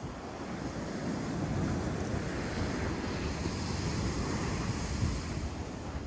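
Ocean surf washing onto the beach, swelling about a second in and holding as a steady rush, with wind buffeting the microphone.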